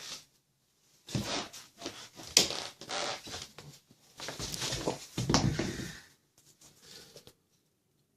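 Rustling and knocking of someone moving about and handling things, with low thuds and a sharp click about two and a half seconds in, dying away in the last second or two.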